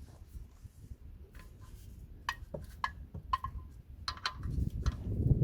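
Irregular light metallic clicks and clinks of a 14 mm wrench on the engine's oil drain plug as it is tightened, over a low background rumble.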